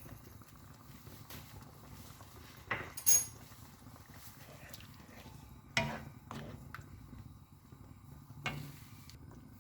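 A metal spoon clinking against a cooking pot a few times, about three seconds in, near six seconds and again near the end, as salt is added to the curry.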